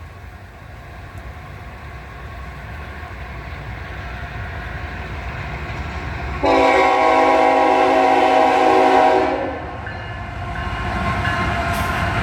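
Approaching freight locomotive rumbling louder and louder, then one blast of a Nathan K5HL five-chime air horn about six and a half seconds in, lasting about three seconds, before the train's rumble carries on.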